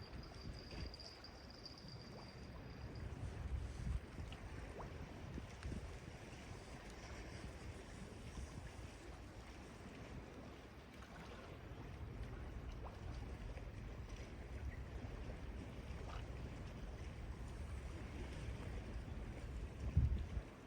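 Sea water washing and lapping along the shore, a steady low wash with a few faint ticks. A thin high steady tone sounds for the first few seconds, and a dull thump comes just before the end.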